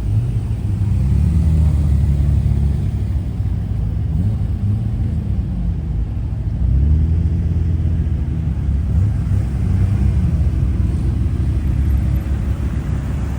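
Car engine rumbling at low revs, its pitch rising and falling a few times as it speeds up and eases off.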